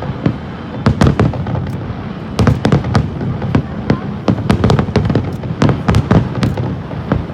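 Fireworks display: rapid volleys of sharp bangs and crackles in quick clusters over a steady low background.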